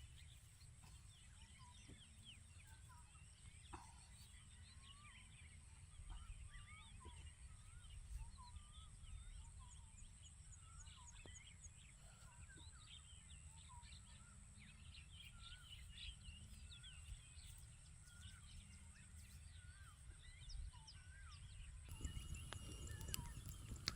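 Faint calling of many birds, short chirps and warbled notes scattered throughout, over a steady high-pitched insect drone and a low rumble. A louder rustling noise comes in about two seconds before the end.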